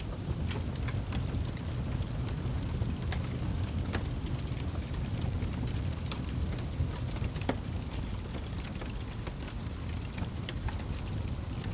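Ambience of steady rain with a low rumble, over a crackling fire whose small sharp pops come at irregular moments.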